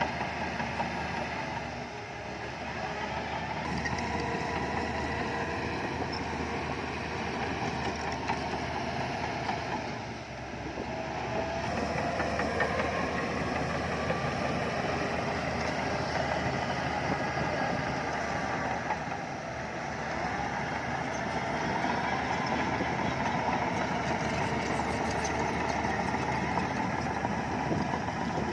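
Diesel engines of heavy earthmoving machinery running continuously, with the engine pitch shifting up and down a little as the load changes, including a short dip about a third of the way through.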